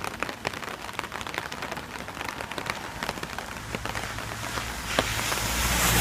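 Rain falling, with many irregular drop ticks close by. The rain's hiss swells over the last second or two, and a low steady hum comes in about halfway through.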